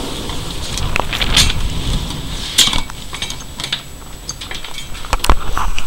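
Blizzard wind buffeting the camera microphone as a steady low rumble, with scattered sharp ticks and clicks through it.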